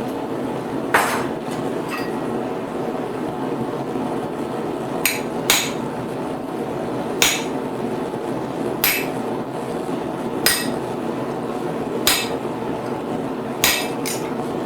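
Blacksmith's hammer striking a hot steel bar on the anvil while forging a fork: single blows about every one and a half seconds, with a quick double blow twice, over a steady background hiss.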